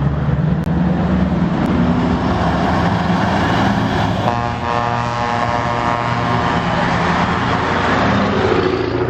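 Heavy trucks' diesel engines running loudly as they drive past. A higher steady tone joins about four seconds in and fades out near the end.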